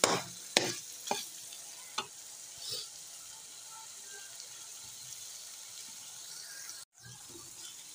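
Mashed carrots frying in oil in a metal pan with a soft, steady sizzle, stirred with a slotted metal spoon that scrapes the pan a few times in the first two seconds. The sound drops out for a moment near the end.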